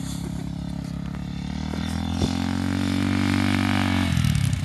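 Dirt bike engine running in first gear, growing louder from about two seconds in, then its pitch dropping just after four seconds.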